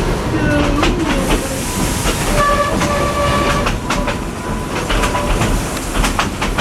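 Narrow-gauge steam train running on the rails: a steady rumble with wheels clacking over rail joints. A faint steady squeal comes in for about a second around the middle.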